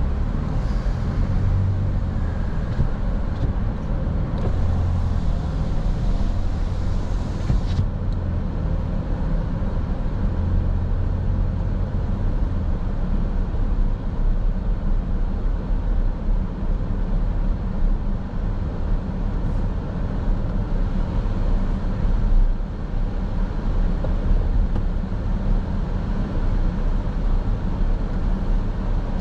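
Car driving at steady speed: continuous low engine and tyre rumble heard from inside the cabin. A high hiss runs through the first eight seconds or so and cuts off suddenly.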